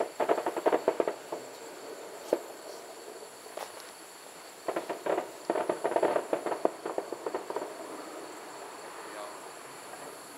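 Distant fireworks crackling in quick runs of sharp pops. There is a burst at the start, two single pops, then a longer crackling volley about five to seven seconds in.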